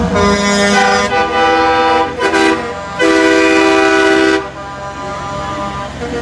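Truck horn blowing a series of steady honks: two of about a second each, a short toot, then a longer blast that stops about four and a half seconds in.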